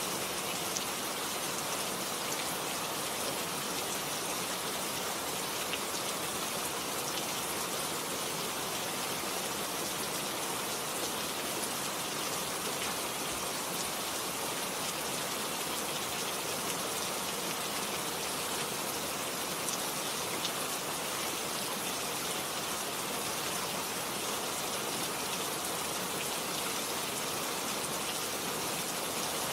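Steady rain falling on garden plants, an even hiss with the odd close drop ticking through it.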